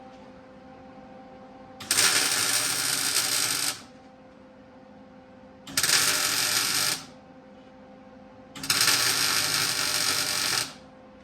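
Welding arc crackling in three runs, the first and last about two seconds long and the middle one shorter, each starting and stopping sharply: welding the brake anchor onto a springer fork leg. A steady hum sounds between the runs.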